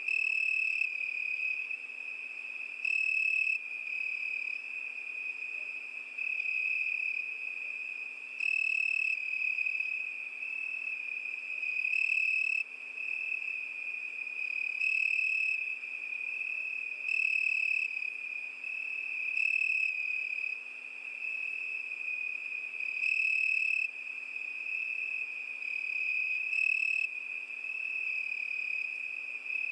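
Crickets singing: a continuous high trill, with a louder, slightly higher chirping phrase breaking in about every two to three seconds.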